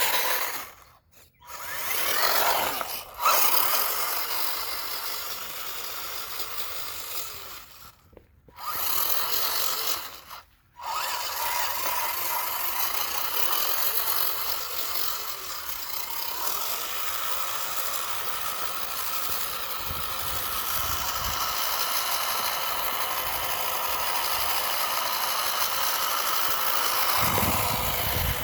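Small RC truck's electric motor and geartrain whirring at high throttle on a speed run. It cuts out briefly three times near the start, then runs steadily.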